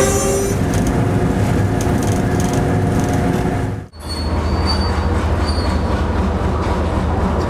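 Steady running noise of a train heard from the locomotive cab, with a horn note fading out just after the start. The sound drops out abruptly for a moment about halfway through, then the same running noise continues.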